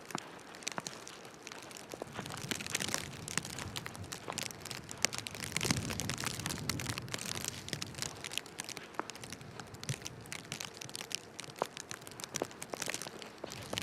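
Footsteps crunching in snow, heard as irregular crackles and clicks over a steady hiss of street noise, with a low rumble swelling in the middle.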